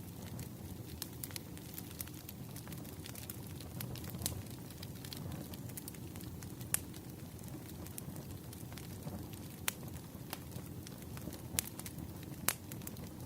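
Wood fire crackling: a steady low rumble of burning logs with irregular sharp snaps and pops, a few of them louder.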